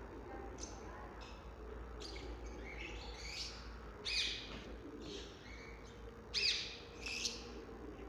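Caged birds chirping: a string of short, high calls, some sweeping down in pitch, the loudest about four and six and a half seconds in.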